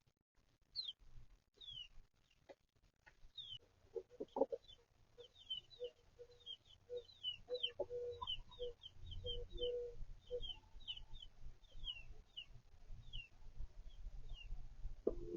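Chicks peeping over and over in short falling cheeps, with a hen's low clucking from about four to ten seconds in.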